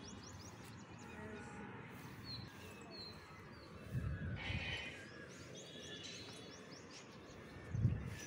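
Small birds chirping in quick series of short, high chirps over a steady outdoor background, with a low bump about four seconds in and a louder one near the end.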